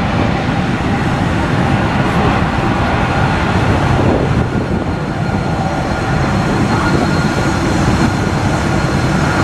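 Boeing 777 jet engines running: a steady, loud noise with faint high whining tones above it.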